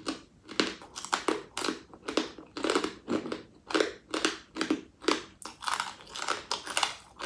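A person chewing a hard, crunchy mouthful with the mouth closed, in close-up, in a steady rhythm of about three crunching chews a second.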